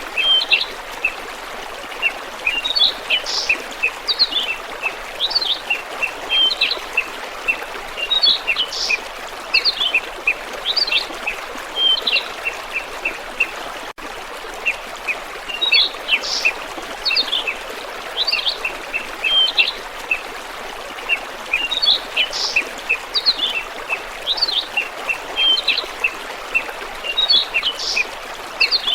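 Small birds chirping and twittering in quick short calls over a steady rush of running water. The same run of chirps repeats after a brief cut about halfway through.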